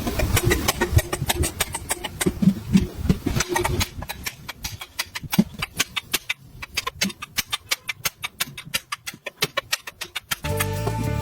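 Workshop hand-work on a moped's two-stroke engine: irregular knocks and taps, then a long run of quick, sharp clicks, about six a second; music comes in near the end.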